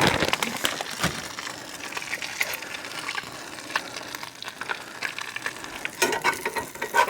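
A butter-fried quesadilla sizzling in a cast iron skillet, a steady crackle with many small pops. The bottom tortilla is browning fast enough to start burning.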